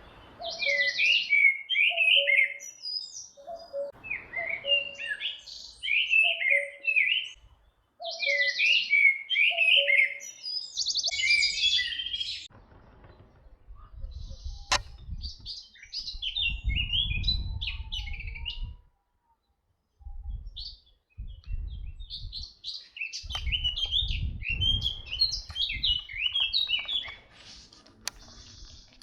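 Songbirds singing in short, quick, repeated warbling phrases, with a lower repeated two-note call under them for the first twelve seconds or so. A low rumble comes and goes in the second half.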